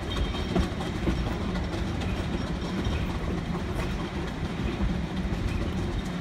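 Narrow-gauge logging-railroad train running along the track, heard from one of its passenger cars: a steady rumble of wheels on rails with irregular light knocks.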